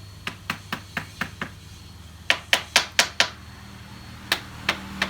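Hammer strikes on wood: a run of six quick light taps, then five harder blows about a second later, and three more spaced taps near the end.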